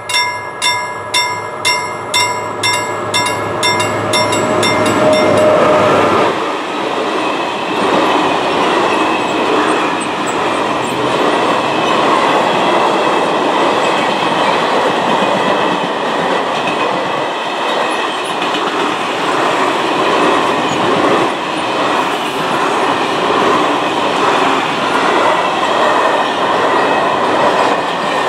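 Level crossing bell ringing about twice a second, then from about six seconds in a freight train passing at speed: a long, steady rumble of wagon wheels on the rails, with a thin high squeal from the wheels.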